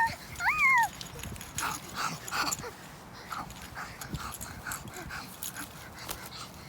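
A high squealing call that rises and falls, twice in the first second. Then birds picking at picnic food, with many short chirps and light pecking taps.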